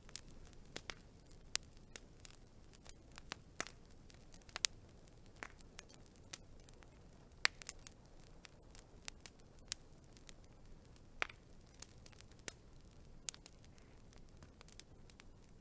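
Burning wood crackling: irregular sharp pops and snaps, a few much louder than the rest, over a faint steady hiss.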